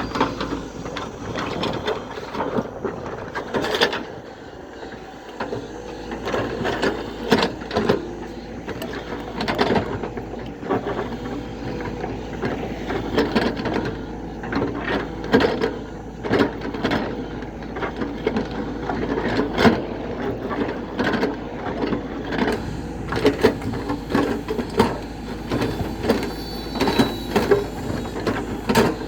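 JCB backhoe loader at work: its machinery rattles steadily under many irregular sharp knocks and clanks.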